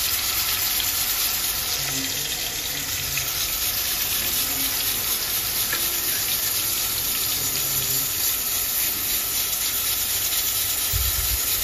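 Marinated prawns sizzling steadily as they fry in hot oil, freshly added to the pot. There is a dull low bump near the end.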